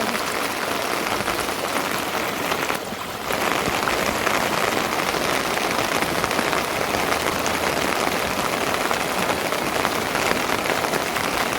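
Steady rain falling, a dense even patter, with a brief dip in level about three seconds in.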